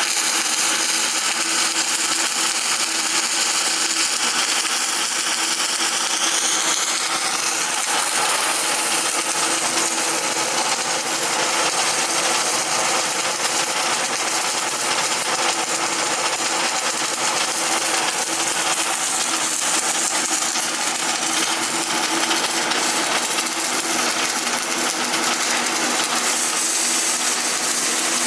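Electric arc welding: a steady, dense crackling hiss that runs on without a break.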